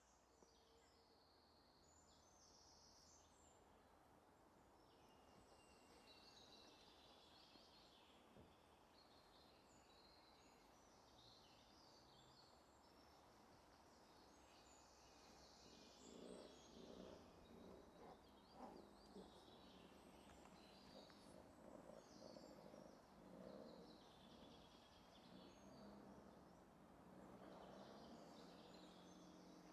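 Faint birdsong: several birds chirping and trilling high up over a quiet hiss. About halfway through, an uneven lower sound comes in and becomes the loudest part.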